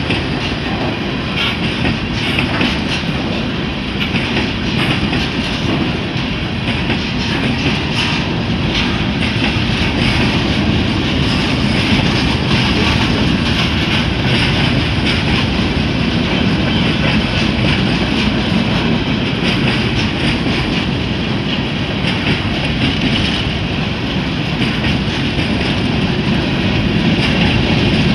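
Freight train boxcars rolling steadily past the crossing: continuous wheel-on-rail noise with irregular clacks as the wheels pass over the track joints.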